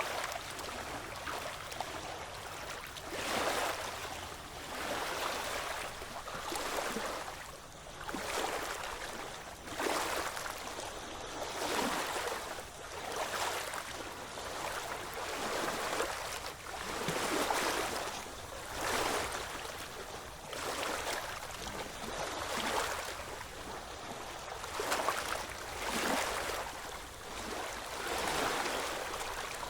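Small ocean waves washing in against the shore, each swell of surf rising and falling every second or two without a break.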